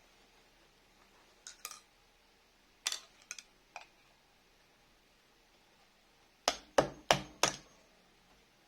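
Metal clinks and taps of tools or small parts being handled, a few light ones, then a run of four sharp strikes about a third of a second apart.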